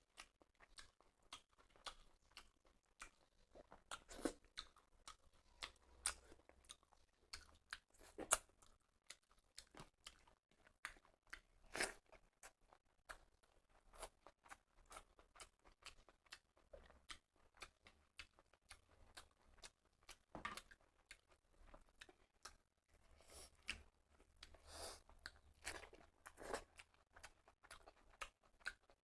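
Close-miked mouth sounds of someone eating rice and curry: steady irregular chewing with wet clicks and occasional crunches.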